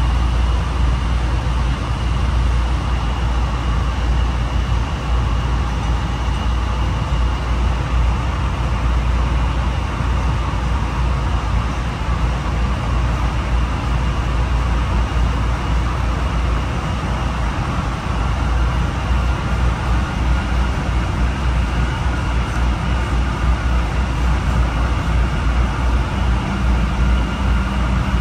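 Honolulu Skyline rail car running along the guideway, heard from inside the cabin: a steady, loud low rumble of the wheels and running gear with a faint high whine on top.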